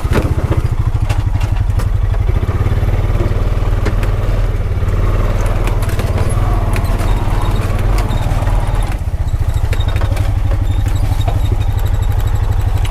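Honda Pioneer 520 side-by-side's single-cylinder engine running steadily under way, with scattered rattles and knocks from the machine over rough ground.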